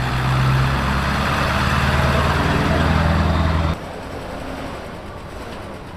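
A car engine and exhaust running loud with a steady deep note; it cuts off abruptly nearly four seconds in, leaving a quieter background.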